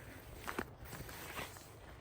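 Footsteps on the forest floor, with two distinct steps, one about half a second in and one near a second and a half.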